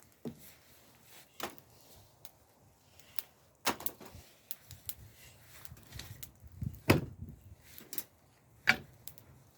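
Irregular clicks and knocks, some with a dull thud beneath them, the loudest about seven seconds in.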